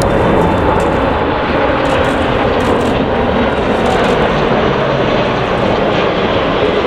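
Jet airliner engines running loud and steady, a dense rumble and hiss with no breaks.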